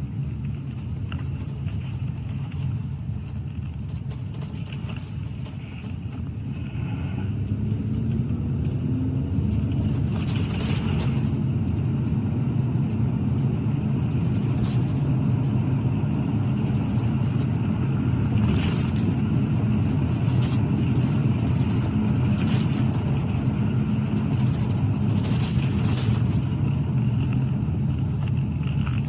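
Road and engine noise of a moving police patrol car heard from inside: a steady low rumble that grows louder about eight seconds in as the car picks up speed, with a few short hissing swells.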